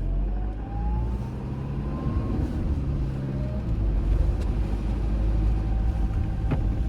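Car driving on a wet road, heard from inside: a steady low rumble of engine and tyres, with a faint whine rising in pitch over the first two seconds.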